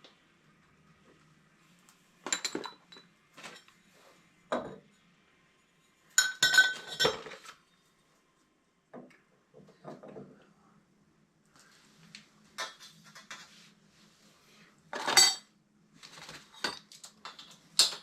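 Copper pipe pieces and fittings clinking and rattling as they are handled, in irregular bursts separated by short pauses. The loudest clatters come about six and fifteen seconds in; the first of these has a ringing metallic tone.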